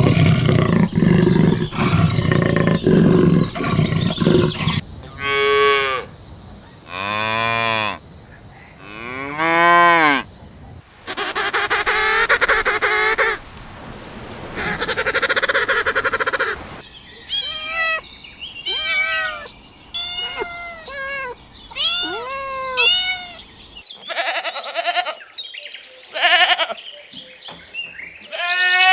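A run of different farm animal calls one after another, among them cattle mooing in long drawn-out calls. The calls change every few seconds, with a quick series of short calls in the second half.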